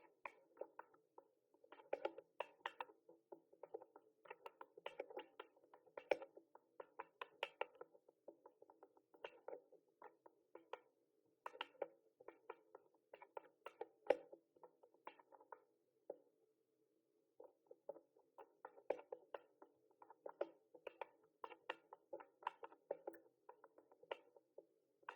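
Typing on a mechanical keyboard: quick, irregular runs of sharp key clicks, with a pause of about a second and a half past the middle.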